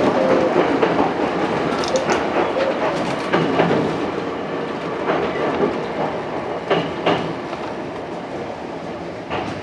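Chichibu Railway 7500 series electric train running on jointed track, its wheels clicking in pairs over the rail joints. The running noise fades steadily and the clicks come further apart as the train slows.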